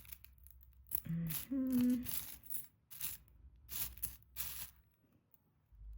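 Jewelry being handled and sorted: a series of short rustling, crinkling handling sounds. A brief two-note hummed 'mm-hm' comes about a second in.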